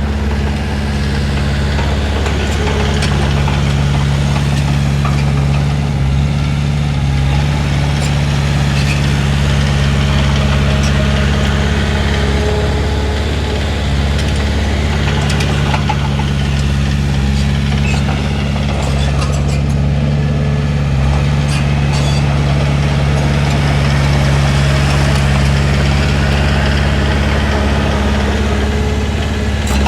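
Heavy diesel engine of an earthmoving machine running steadily, with a few faint metallic clanks.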